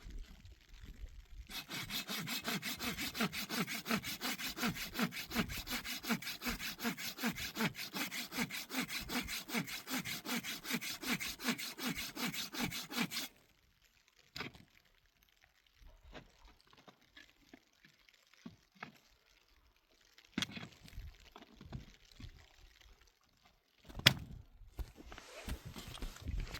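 Hand saw cutting through wood in steady back-and-forth strokes, about three a second, for some ten seconds before it stops. Scattered light knocks and handling of wood follow, growing busier near the end.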